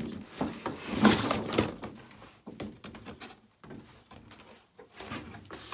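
A cardboard box and its packaging being handled and rummaged through: rustling, scraping and light knocks, loudest about a second in, then scattered clicks and shuffles.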